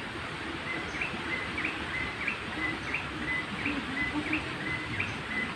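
White-breasted waterhen calls repeating in a steady rhythm, a short call ending in an upward flick about every two-thirds of a second, the sound used to lure waterhens to the trap.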